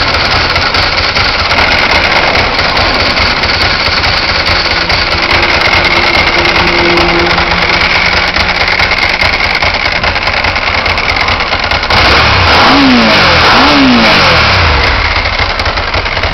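Ducati ST2's air/oil-cooled 90-degree V-twin, fitted with a dry clutch, idling. It then gets two quick throttle blips about twelve and thirteen seconds in, the revs rising sharply and falling back each time.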